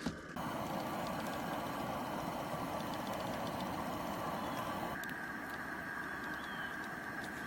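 A click, then a steady rushing hiss of a gas flame that stops about five seconds in, lighting the charcoal grill.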